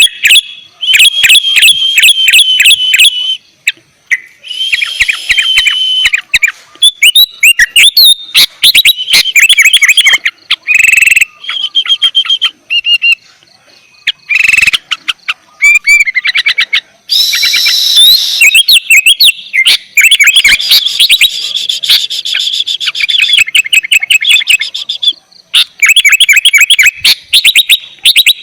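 Sooty-headed bulbul (kutilang) singing loudly in full song: quick runs of sharp repeated chirping notes in phrases a second or few long, broken by a few short pauses.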